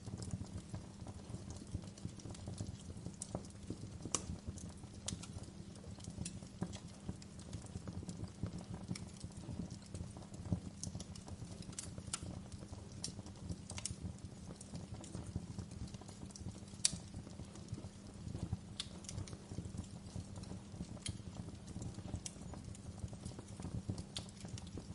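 Fire crackling, with scattered sharp pops at irregular intervals over a steady low rumble of the flames.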